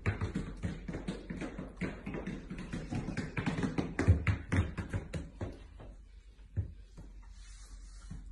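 Dogs wearing rubber-soled boots stepping on a hard floor: rapid, irregular tapping footfalls that thin out about five and a half seconds in.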